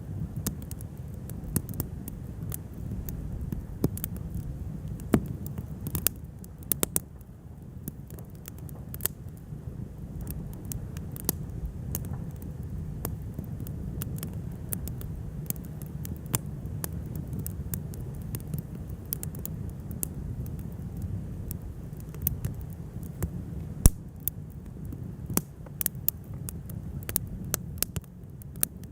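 Wood fire crackling: many sharp, irregular pops and snaps over a steady low rumble, with one especially sharp pop late on.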